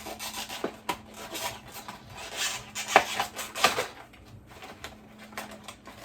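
Handling of a crushed cardboard box and the face scrubber from it: rustling packaging with clicks and knocks, the sharpest about three seconds in, then quieter after about four seconds.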